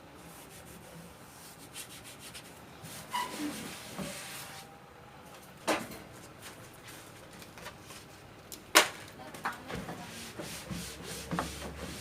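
Rubbing and scrubbing on an egg incubator's surfaces while it is cleaned, with scattered light clicks and two sharp knocks, the loudest about nine seconds in.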